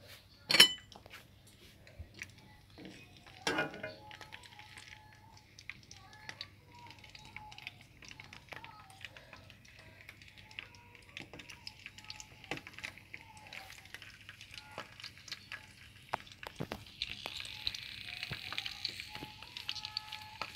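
Skewered okra frying in a wok of hot oil, the sizzle faint at first and building to a steady hiss in the second half. A sharp knock about half a second in and a shorter rattling knock a few seconds later.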